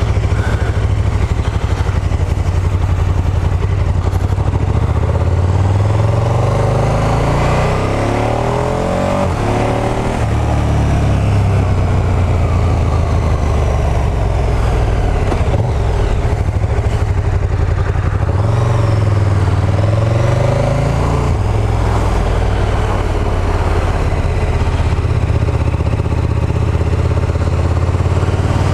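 Motorcycle engine running under way, its pitch rising and falling as the bike accelerates and eases off, over steady road and wind noise.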